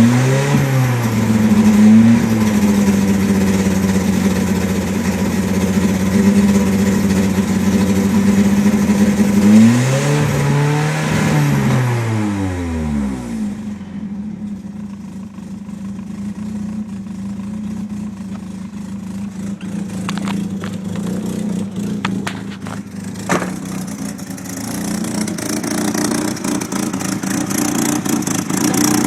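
Nissan SR20DET turbocharged four-cylinder engine held at raised revs for about ten seconds, revved once more and let fall back to a quieter, lower idle. It runs rough and misses at steady rpm with an exhaust leak, which the owner later traced to a slight oil overfill while on jacks.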